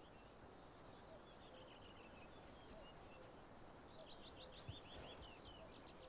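Faint calls of a Eurasian dotterel, short high notes now and then, then a quick run of short falling notes about four seconds in, over quiet open-tundra air.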